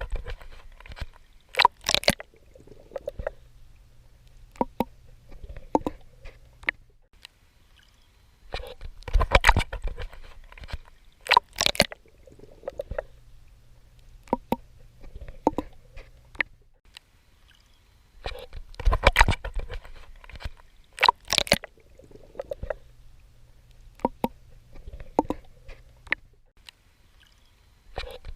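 Swimming in sea water: clusters of splashing strokes that come back about every nine to ten seconds, with quieter watery ticks and a low steady hum between them.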